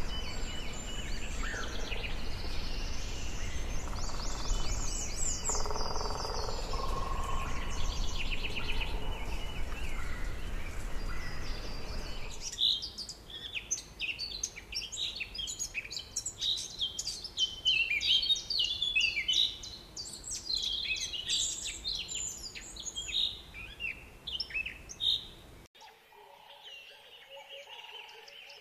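Rainforest ambience of many birds chirping and calling. For about the first twelve seconds a steady low rumble lies under scattered calls. Then a dense chorus of quick, high chirps takes over, and near the end the sound drops suddenly to a quieter forest background with faint calls.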